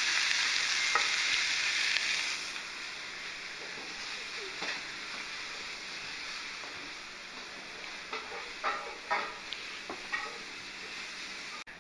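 Sliced mushrooms sizzling in a stainless steel frying pan as they are stirred with a spatula. The sizzle is loud for the first two seconds or so, then settles to a quieter steady hiss, with a few light clicks and knocks near the end.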